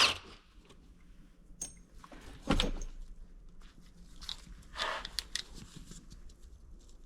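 Scattered light clicks and knocks of hand tools and metal engine parts being handled during a teardown, with a louder knock about two and a half seconds in.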